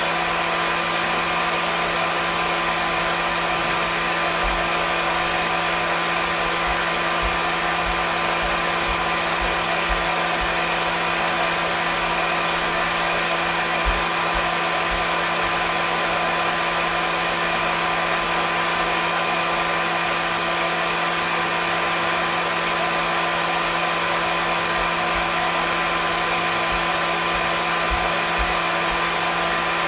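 Hair dryer running steadily: an even rush of blown air with a steady motor hum underneath.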